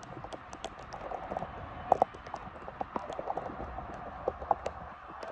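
Irregular quick taps and knocks over a steady low hiss, with one sharper knock about two seconds in.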